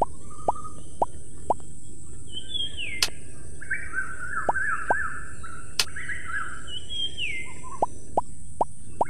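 Birds chirping, with runs of short plopping notes that slide down in pitch about twice a second and two sharp clicks, over a steady high hiss.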